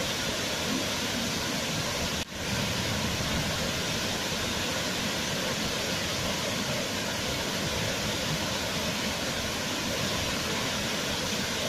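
Waterfall: a steady rush of falling water, with a momentary dropout a little over two seconds in.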